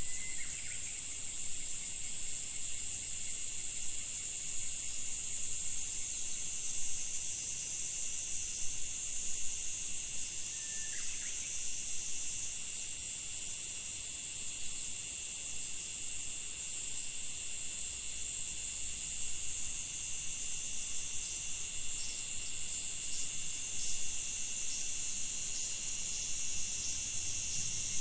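Dense insect chorus, a steady high-pitched shrilling that carries on without a break. Near the end a run of short, sharp high chirps sets in, about two a second.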